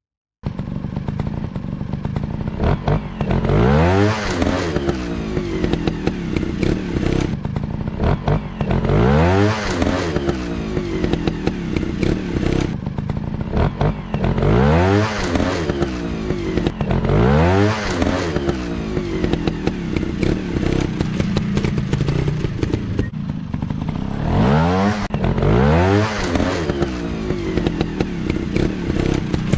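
Off-road dirt bike engines running, revved up and dropping back again about seven times in bursts a few seconds apart, with steady running in between.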